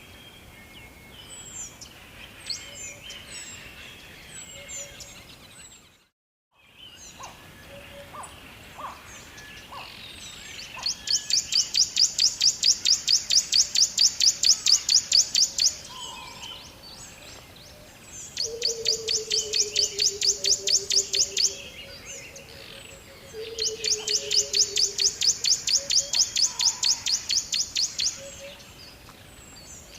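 Birds chirping, with one bird repeating a loud, fast trill of about ten notes a second in three long bursts of three to five seconds, and a lower falling call heard twice. The sound drops out briefly about six seconds in.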